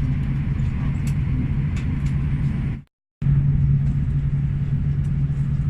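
Steady low drone inside the cabin of an Airbus A320 parked at the gate, from its air conditioning running before engine start. It cuts out completely for a moment about three seconds in, then resumes unchanged.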